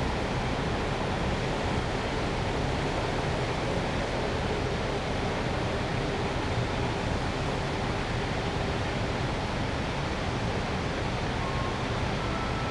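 Steady urban night ambience: an even, unbroken wash of city traffic and street noise, with a faint thin whine coming in near the end.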